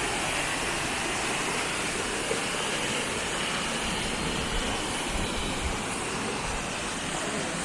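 Minoh Falls waterfall, a steady rush of falling water.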